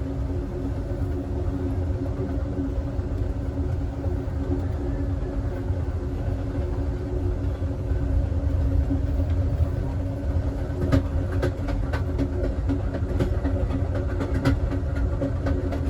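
Amtrak Southwest Chief passenger car rolling along the track: a steady rumble with a low hum. From about eleven seconds in, a string of sharp clicks and knocks sits on top of it.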